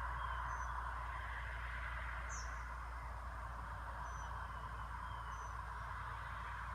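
Diesel logging truck engine running with a steady low rumble, with short bird chirps over it several times and one brief high chirp a little over two seconds in.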